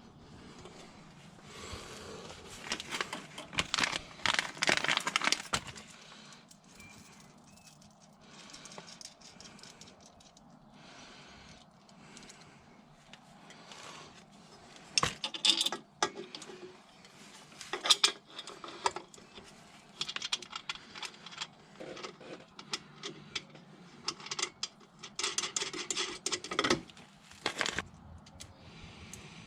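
Metal exhaust parts and hand tools clinking, clattering and rattling in irregular bursts while an aftermarket exhaust GPF section is bolted up and hung on its mounts, with the loudest clatter about three to five seconds in and frequent sharp clanks through the second half.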